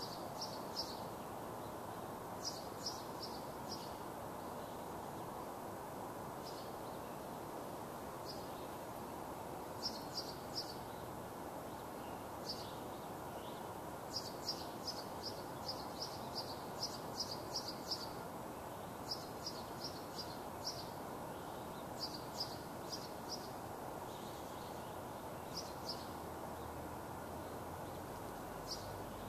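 A small bird chirping in short, quick runs of three to six high notes, repeated on and off, over steady low outdoor background noise.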